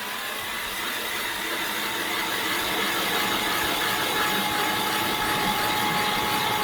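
Battery-powered ice auger drilling into lake ice: a steady motor whine over the hiss of the bit cutting. Its pitch drops slightly about three seconds in. The battery is nearly flat.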